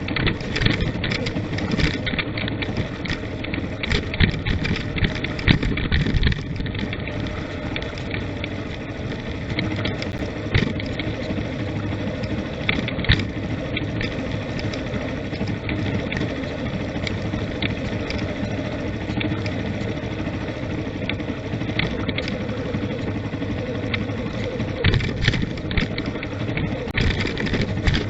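A vehicle driving along an unpaved forest road: a steady engine and road noise, with frequent short knocks and rattles from the rough surface.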